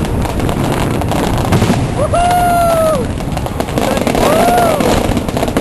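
Fireworks crackling and popping without a break. Over them comes one long, held whoop about two seconds in and a shorter rising-and-falling one near the end.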